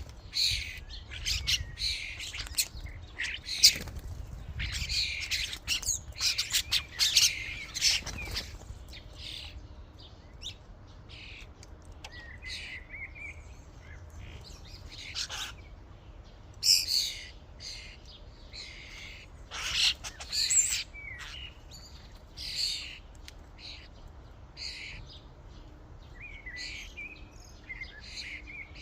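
A flock of common starlings calling and chattering: a dense jumble of short, high calls for the first eight or nine seconds, then scattered single calls and whistles.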